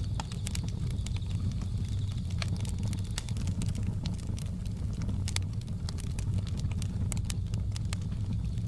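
Wood fire crackling, with frequent irregular sharp pops and snaps over a steady low rumble of the flames. A faint steady high-pitched tone runs underneath.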